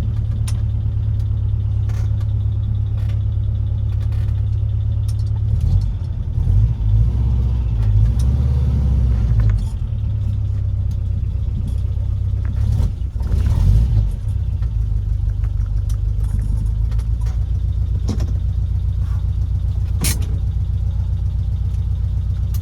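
Classic Ford Taunus V4 engine idling steadily, revved up twice: a longer rev about a quarter of the way in and a shorter one past the middle.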